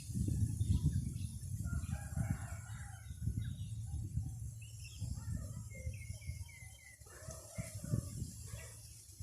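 Wind buffeting the microphone, with a cockerel crowing a couple of times and a small bird chirping briefly in between.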